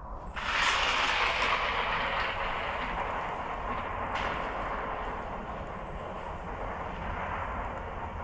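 Recorded thunder sound effect played from a cell phone speaker: a sudden crash about half a second in that rumbles on and slowly fades, with a second, smaller crack about four seconds in.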